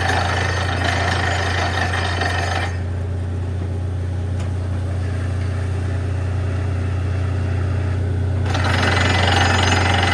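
Borewell drilling rig working: a steady low engine drone under a dense rattling, hammering noise. The rattle drops away about three seconds in and comes back strongly near the end.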